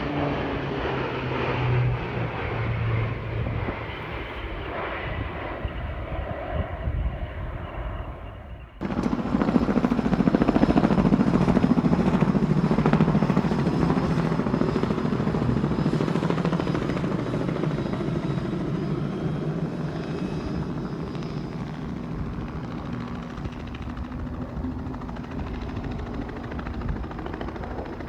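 Aircraft engine noise from an air show display, in two recordings joined by an abrupt cut about nine seconds in. The first part has low tones falling in pitch as the aircraft passes. The second is louder and steadier.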